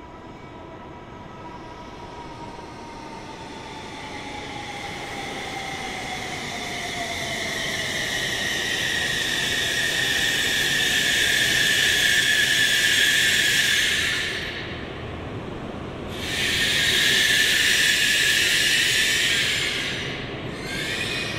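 JR Kyushu N700S series Shinkansen train running past, growing steadily louder into a loud rush of wheels and air with a high whine in it. Near the start a tone slowly falls in pitch. Later the sound drops away sharply twice for a moment.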